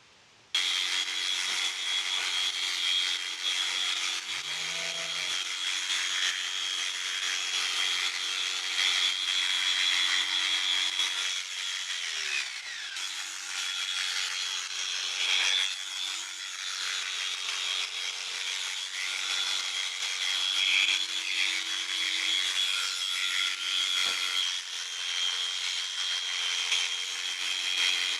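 Electric sheep shears running and cutting through a fleece: a steady mechanical whine with a continuous rasping of the blades through the wool. It starts abruptly about half a second in.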